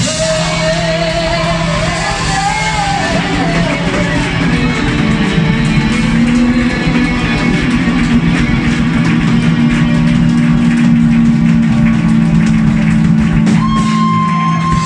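Rock band with electric guitar playing the close of a song: a guitar melody over a long sustained chord, with a high held guitar note coming in near the end.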